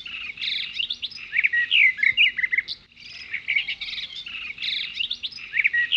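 Birds chirping and twittering in quick, high sweeping notes, with a brief pause about halfway through.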